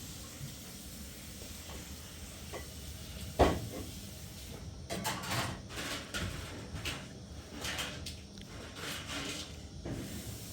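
A single sharp knock about a third of the way in, then a run of short, rough scraping strokes, roughly one or two a second.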